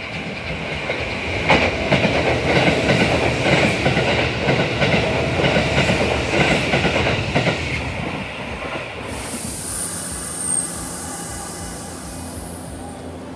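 Sanyo Electric Railway train passing through the station on the near track at speed, its wheels clacking over the rail joints in a dense run from about a second and a half in, then fading away after about eight seconds. Near the end a high hiss and a low steady hum take over.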